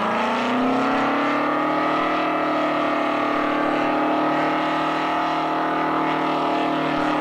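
Monster truck's engine climbing in revs over the first second, then held steady at high revs under full throttle.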